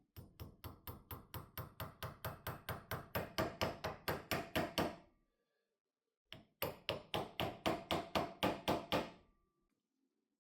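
Rapid, even hammer taps, about five a second, in two runs: the first grows louder over about five seconds, then after a short pause a second run lasts about three seconds.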